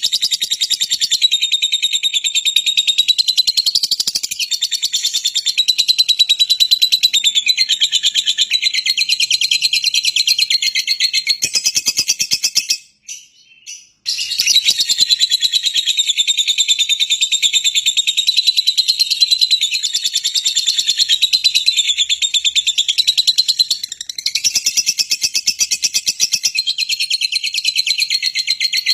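Songbird singing a dense, rapid, high-pitched twittering song, continuous apart from a break of about a second around the middle.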